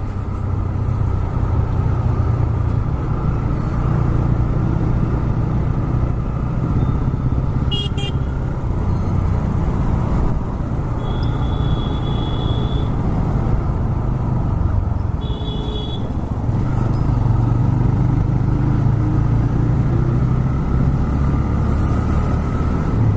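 TVS Raider 125's single-cylinder four-stroke engine running steadily while riding, with road and wind noise. A vehicle horn sounds for a couple of seconds about halfway through, then again briefly a few seconds later.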